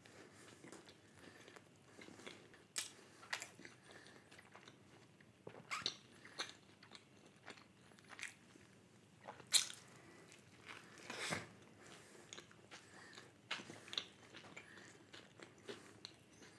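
Person biting into and chewing a chicken burger close to the microphone: faint, irregular mouth clicks and smacks, with a few louder bites scattered through.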